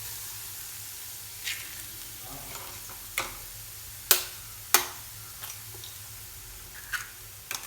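Onion masala frying in oil in a pan, sizzling steadily, with several sharp taps and clicks on the pan, the two loudest a little past halfway.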